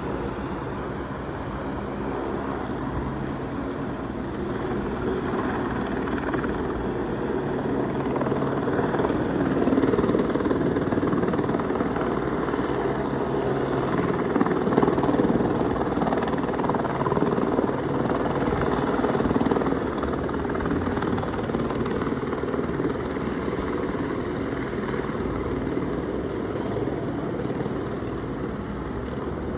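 Helicopter flying low overhead: a steady rotor and engine drone that grows louder toward the middle, then eases off a little.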